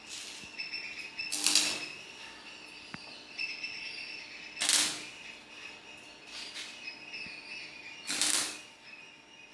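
Electric arc welder striking short tack welds on steel: three brief bursts of crackling hiss about three seconds apart, over a steady high-pitched background trill.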